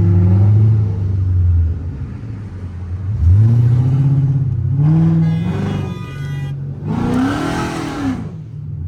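V8 car engine cruising steadily, then revving up in several pulls: a sharp climb about three seconds in, another around the middle, and a louder rev near the end that rises and falls.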